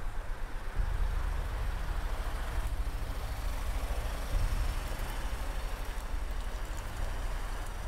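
Car engine idling: a steady, low, pulsing rumble that gets stronger about a second in.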